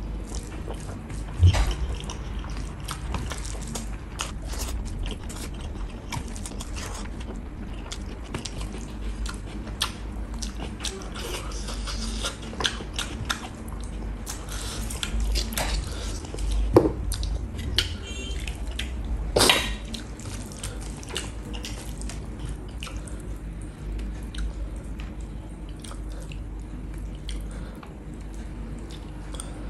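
Close-miked wet chewing and lip smacking of a person eating rice, beef curry and mustard leaf by hand, with finger licking. Many short wet clicks and smacks, with a sharp one about a second and a half in and two louder smacks past the middle.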